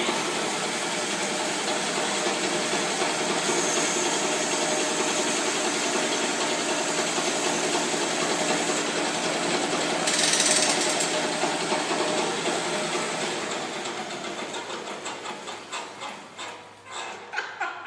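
Bandsaw mill running, a steady mechanical noise of motor and blade. About ten seconds in a brighter hiss swells briefly as the blade cuts. Over the last few seconds the noise dies away in uneven pulses as the mill slows.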